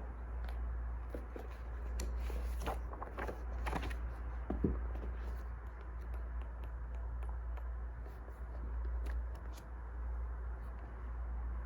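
Wood fire crackling: scattered small pops over a steady low rumble. About two seconds in comes a brief run of rustling and scraping, ending in a sharper knock.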